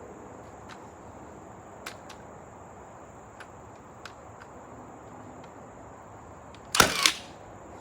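Battery-powered Milwaukee cordless nail gun firing once in single-fire mode near the end, a sharp double crack as it drives a nail into a 2x6 board. A few faint ticks of handling come before it.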